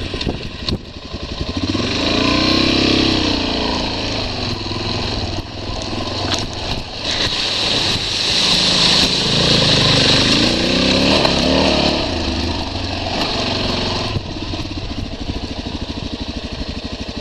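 Dual-sport motorcycle engine revving up and falling back twice under a heavy hiss of noise. From about fourteen seconds in it runs steadily and more quietly.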